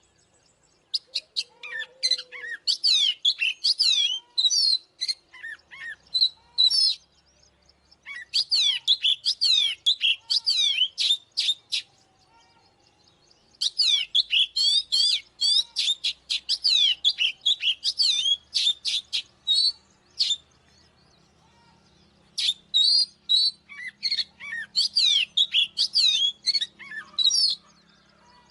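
Oriental magpie-robin singing: fast series of varied, sharply sliding whistled notes, in four long phrases separated by brief pauses.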